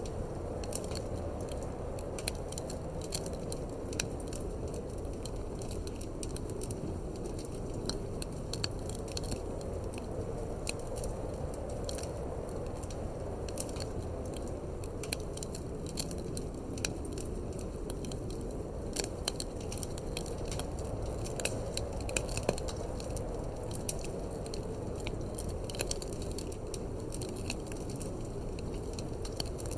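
Wood fire crackling in a fireplace, with frequent sharp pops and snaps, over a steady low rumble of wind.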